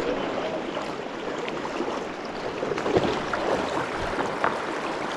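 River water rushing and splashing close to the microphone, a steady noise that starts abruptly, with a few faint knocks.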